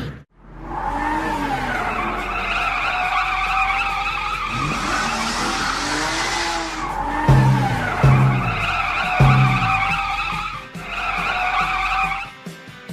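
Cartoon sound effects of a car skidding: a long, wavering tyre screech, cut by three sharp thumps about a second apart in the middle, over background music.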